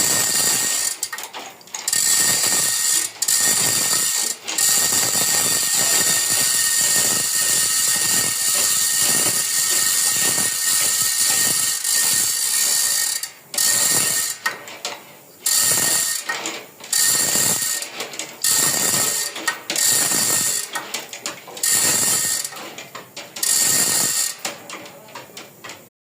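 Mitsubishi S6S six-cylinder diesel engine running, heard as a loud, dense, fast mechanical clatter with a steady high whine. The sound dips sharply a few times, about halfway through and again near the end.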